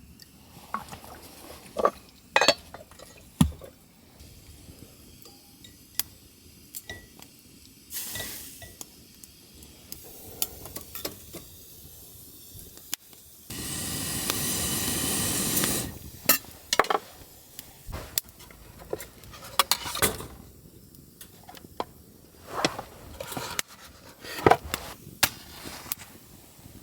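Camp cookware being handled, with scattered clinks and knocks, and liquid poured for about two seconds a little past the middle.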